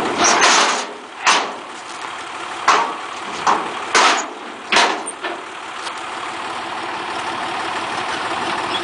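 Tractor engine idling steadily, with about six short, loud noises in the first five seconds.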